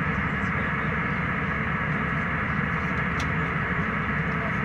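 Steady cabin noise of an airliner in flight: an even rush of engines and airflow that holds at one level throughout.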